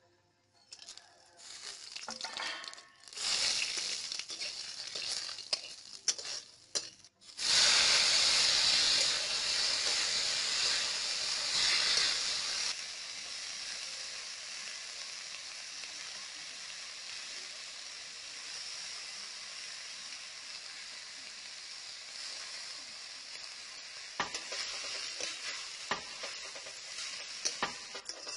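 Chopped garlic sizzling in hot oil in a karahi, then fresh fenugreek leaves dropped in about seven seconds in with a sudden, louder sizzle. The sizzle settles to a steady hiss, and near the end a metal spatula clicks and scrapes against the pan as the leaves are stirred.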